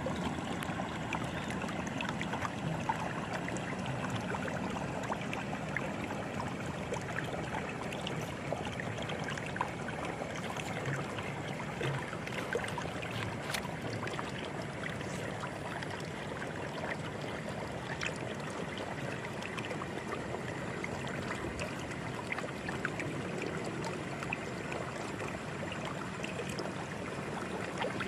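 Stream water flowing steadily, with small trickling and splashing ticks.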